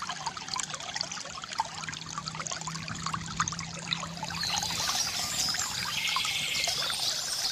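Water from a bamboo fountain trickling and splashing into a basin, a continuous dense patter of drops.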